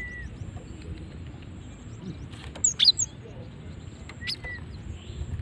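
Female cinereous tit (gelatik batu) giving short high calls: a brief note at the start, a quick cluster of sharp high notes about two and a half seconds in, the loudest, and another pair of notes about four seconds in. Steady low background noise runs underneath.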